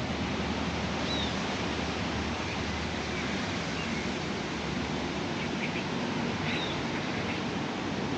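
Steady outdoor background noise, an even hiss, with a few faint bird chirps, one about a second in and another near six and a half seconds.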